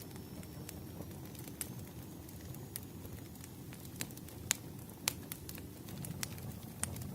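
Wood fire in a fireplace crackling: a steady low rumble of burning with irregular sharp pops and snaps, two of them louder about halfway through.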